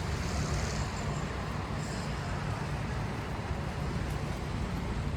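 Steady city street traffic noise, a constant low rumble of passing vehicles.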